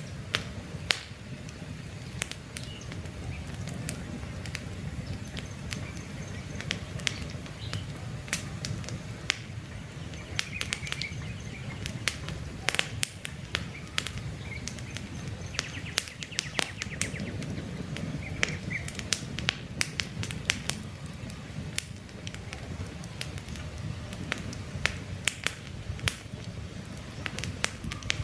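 Campfire crackling with frequent sharp pops over a low, steady flame noise, with a few short bird chirps now and then.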